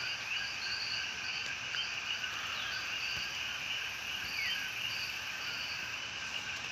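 Steady outdoor chorus of insects and frogs: a constant high buzz with short, higher chirps repeating, often in pairs, every second or so.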